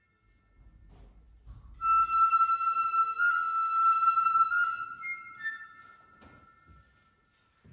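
Flute holding one long, high note that enters about two seconds in and fades away after a few seconds, followed by a brief higher note.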